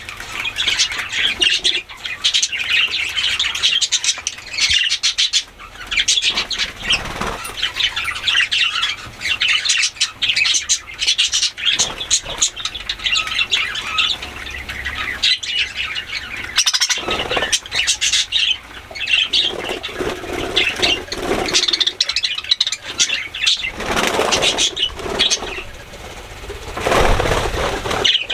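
Budgerigars chattering and chirping rapidly and continuously while bathing, with bursts of wing flapping and splashing, loudest about two-thirds of the way in and near the end.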